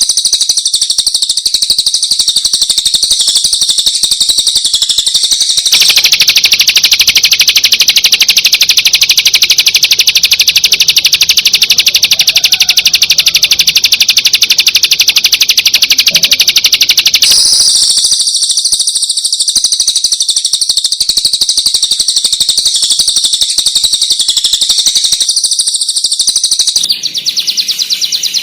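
Long-tailed shrike (cendet) singing a continuous fast chattering song of rapid high notes, full of mimicked phrases of other birds. The song changes abruptly about 6, 17 and 27 seconds in.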